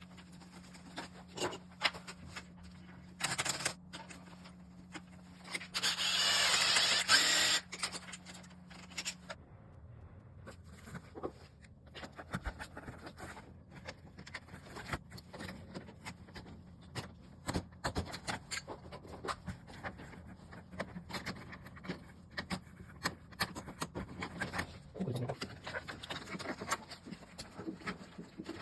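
Tool and fitting work on an air conditioner installation: scattered clicks, taps and scrapes, with a loud hissing burst lasting about two seconds around six seconds in. A steady low hum stops about nine seconds in.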